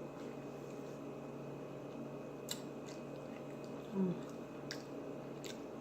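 A person chewing food close to the microphone, with wet mouth clicks and smacks, the sharpest about two and a half seconds in and near the end. A short low voice sound, like a hum, comes about four seconds in.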